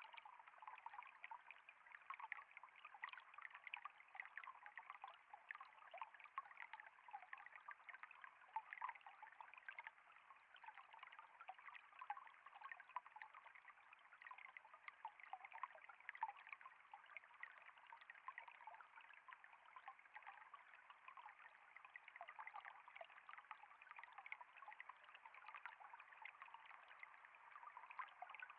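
Faint, steady trickle of flowing water, with many small splashing flecks.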